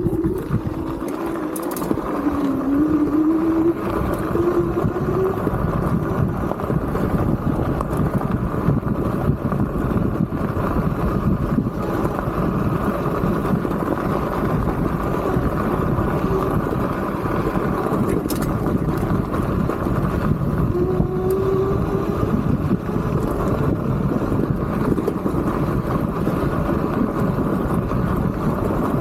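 Riding noise from a Tiger Plus fat-tire electric bike on rough ground: steady rumble of the tyres and wind buffeting the microphone. A thin whine rises in pitch a couple of seconds in and again about two-thirds of the way through.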